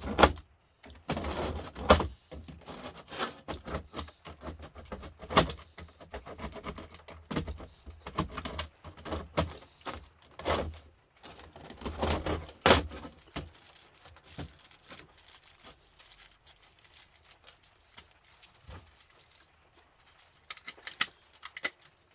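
Light scrap metal clinking and clattering as an aluminium-finned copper radiator coil is pulled apart by hand. Irregular sharp clicks and knocks, with the loudest strikes about two and twelve and a half seconds in, thinning out to quieter picking sounds in the second half.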